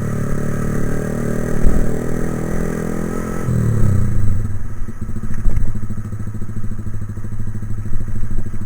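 Motorcycle engine running under way, its revs falling sharply about three and a half seconds in as the throttle is eased, then running steadily at lower revs. A few thuds and rattles from the bike jolting over the rough road.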